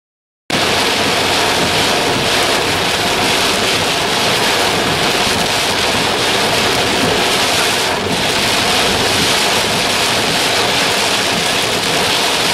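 Heavy wind-driven rain beating on the car while it drives through a severe thunderstorm, heard from inside the cabin as a loud, steady rush of noise.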